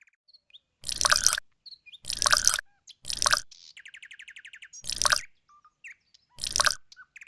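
Birds calling: five short loud calls about a second apart, with a rapid trill near the middle and small chirps between them.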